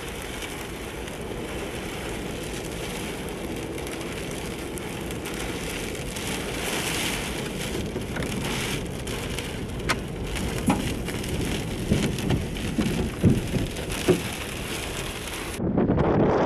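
Heavy wind-driven rain beating steadily on a truck, with scattered sharp knocks of debris hitting it in the second half. About a second before the end the sound changes abruptly to wind buffeting the microphone.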